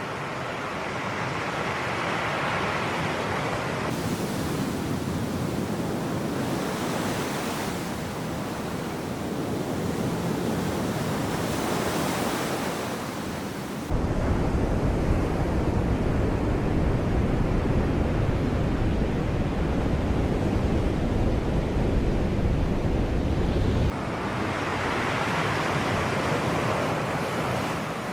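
Sea waves washing in and out in slow swells. For about ten seconds in the middle, a loud low rumble starts and stops abruptly, like wind buffeting the microphone.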